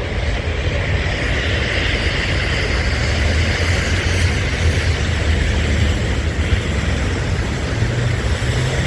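Strong blizzard wind blowing over the microphone: a steady rushing noise with heavy low buffeting.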